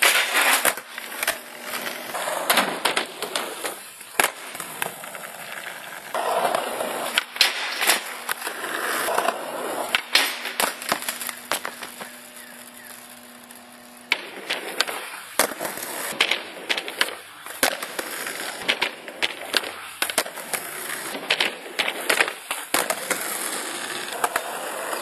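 Skateboard rolling with repeated sharp clacks of tail pops and board landings.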